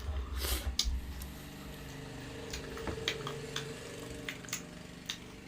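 Faint, scattered short clicks and ticks over a low, steady hum.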